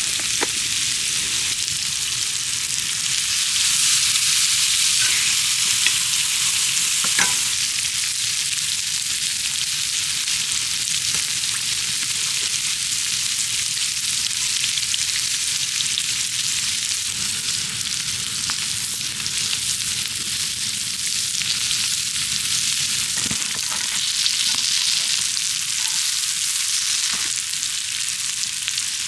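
Food sizzling steadily in hot oil on a pan, with a few light clicks of a cooking utensil.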